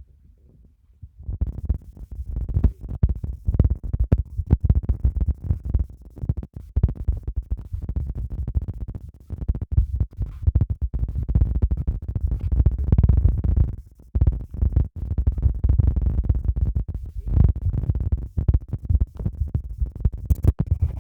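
Loud, irregular low rumbling and scratchy rubbing noise on a phone's built-in microphone, fluttering and dropping out briefly again and again: handling or rubbing noise that swamps the recording.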